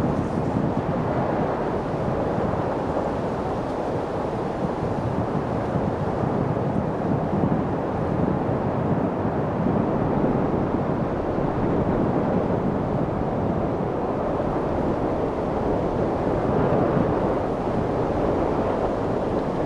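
Wind blowing steadily, an even rushing without distinct gusts.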